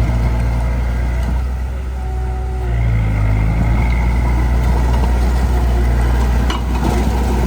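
Heavy earthmoving machine's diesel engine running steadily. It eases off briefly about two seconds in, then picks up again about a second later.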